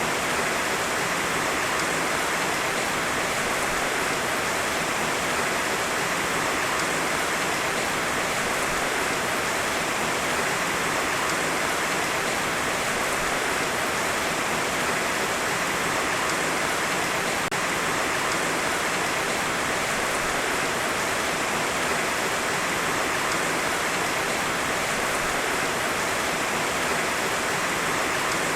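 Heavy rain falling steadily, a dense even hiss of rain with no thunder.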